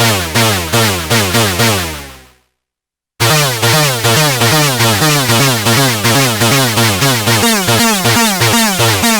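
Arturia MicroBrute analog synthesizer playing a hoover-style patch: a repeating run of notes, about three a second, each sliding in pitch. It fades out about two seconds in, stops for under a second, then starts again, with a lower note joining near the end.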